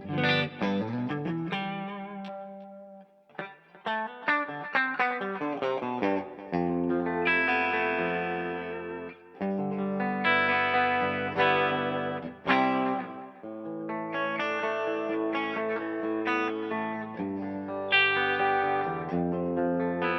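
Electric guitar played through a DVII tube amp, with delay and reverb trailing the notes. It opens with a quick run of single notes, drops away briefly about three seconds in, then moves into sustained, ringing chords.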